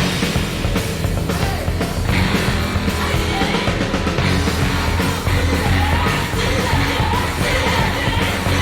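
Hard rock song playing loud, with electric guitar, bass and drums, and a yelled, shouting male lead vocal with a punk-rock edge. The full band crashes in right at the start.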